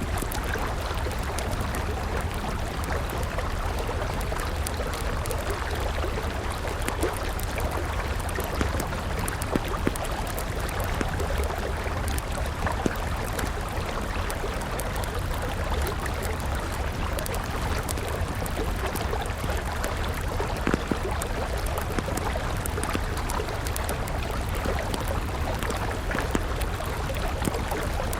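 A river flowing steadily, with a wood campfire crackling over it in scattered sharp pops, a few of them louder.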